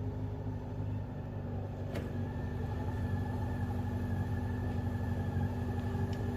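Steady low mechanical hum with a faint steady tone above it, and one light click about two seconds in.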